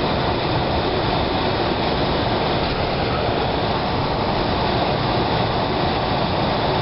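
Steady road and tyre noise inside the cabin of a 1997 Toyota Avalon under way, with its engine running and the heater fan blowing.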